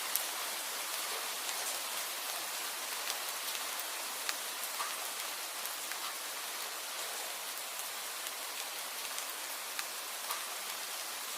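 Steady rain falling, an even hiss with scattered sharper drop ticks at irregular moments.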